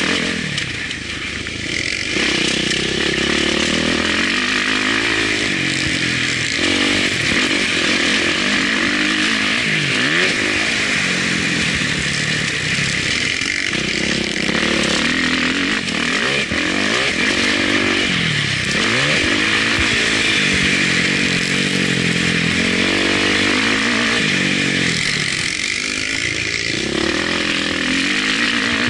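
Motocross bike engine revving up and falling off again and again, with the pitch repeatedly climbing and dropping as the rider works the throttle and gears. Steady wind rush on the onboard microphone runs underneath.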